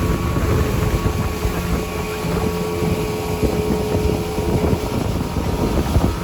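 Gladiator 9.9 outboard motor running steadily with the boat under way, its engine note holding even, over wind buffeting the microphone and water rushing past the hull.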